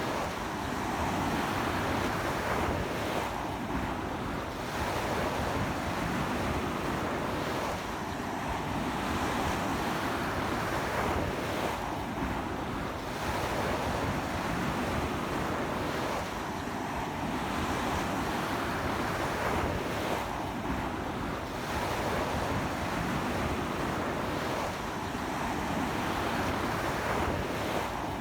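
Sea surf breaking and washing onto a beach in strong wind: a continuous rushing hiss that swells and eases about every four seconds.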